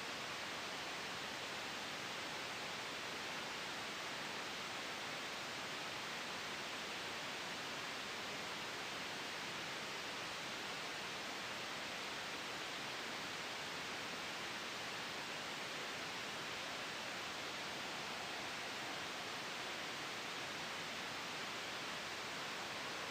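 Soft white noise: a steady, even hiss that does not change in level.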